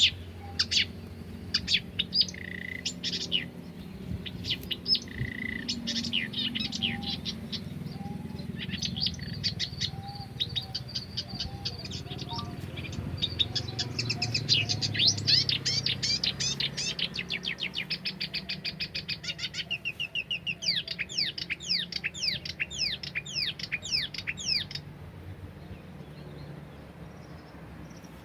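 Wild songbirds singing and chirping, with short sweeping whistles and fast rattling trills. The song is densest in the middle and thins out near the end.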